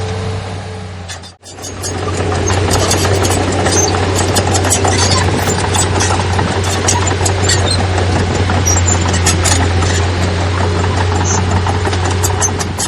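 Heavy diesel earthmoving machinery running steadily, with scattered metallic clanks and rattles over the engine's low drone. The sound drops out for a moment about a second and a half in, then carries on.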